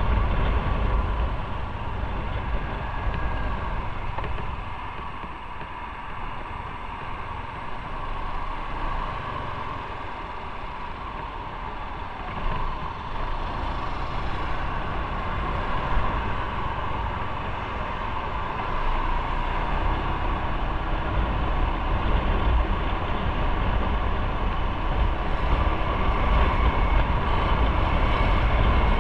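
Motorcycle underway, its engine running under steady wind and road noise. It eases off for several seconds, then builds up again later.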